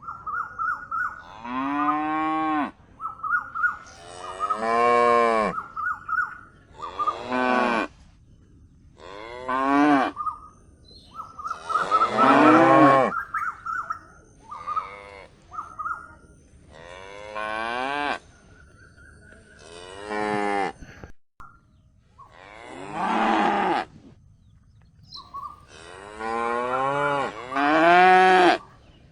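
Calves mooing over and over, about ten calls of a second or so each, every call rising and then falling in pitch, with short pauses between.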